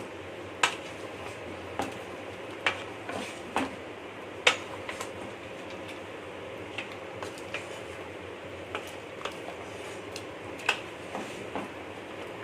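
Spoon or spatula knocking and scraping against a cooking pan while chicken in tomato purée is stirred: irregular sharp clinks, roughly one a second, over a steady background hiss.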